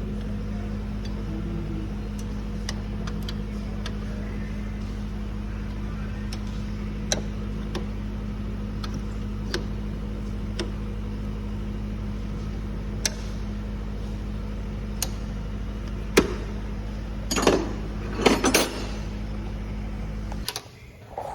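A steady low machine hum with scattered metallic clicks and taps of hand tools, and two louder ringing clanks near the end. The hum cuts off suddenly just before the end.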